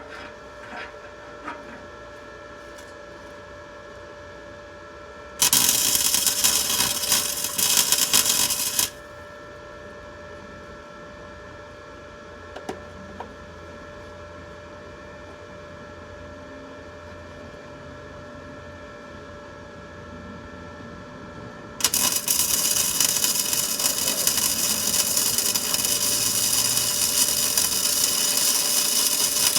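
Power grinder cleaning up the metal of a car's exhaust hanger to prep it for welding, run in a short burst of about three seconds, then started again near the end and kept running.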